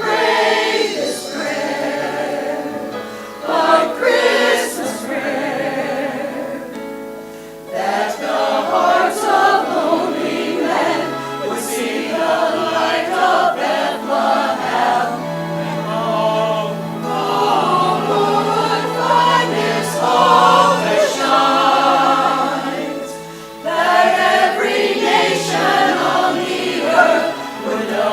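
Church choir singing an anthem in phrases over held low accompaniment notes, with short breaks about seven seconds in and again near the end.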